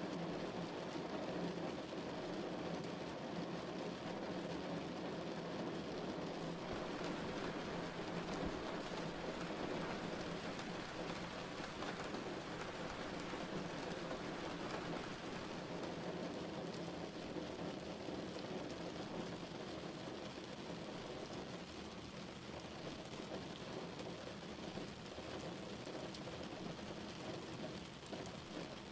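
Steady rain falling, an even hiss of rain on a surface.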